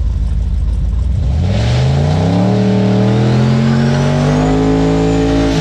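A pickup truck's engine rumbling low, then revving up about a second in and holding high revs steadily for a few seconds.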